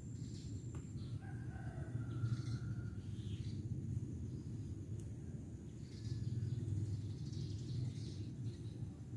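A rooster crowing once, a drawn-out call about one to three seconds in, with scattered short bird chirps, over a steady low rumble.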